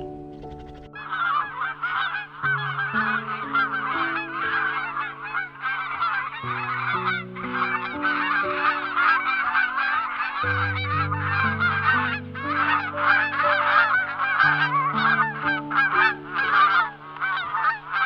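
A flock of geese honking continuously, many calls overlapping, starting about a second in. Slow background music with held chords plays underneath.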